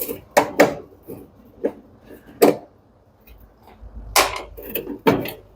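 Sharp clicks and knocks of tools and metal parts being handled while taking apart a tumble dryer, about half a dozen at uneven spacing, with a brief low rumble a little past the middle.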